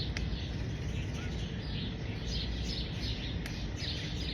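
Small birds chirping over and over, short quick notes, above a steady low outdoor rumble.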